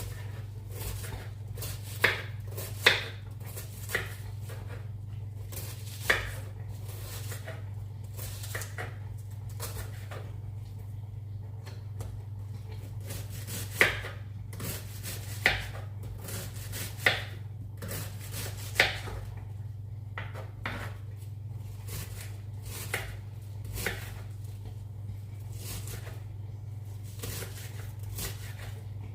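Food preparation sounds: scattered, irregular sharp knocks and clicks of a knife or utensils against a board or cookware, over a steady low hum.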